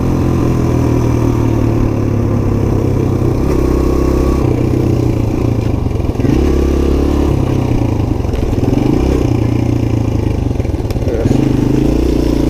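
Suzuki DR-Z125's single-cylinder four-stroke engine running under way, its revs rising and falling several times as it is ridden.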